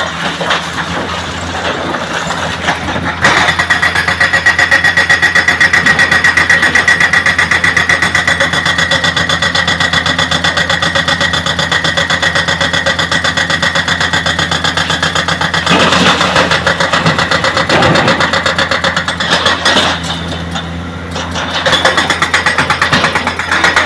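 Heavy diesel engine running hard with a rapid, even pulse; it gets louder about three seconds in. A harsher rush of noise joins in for a couple of seconds past the middle.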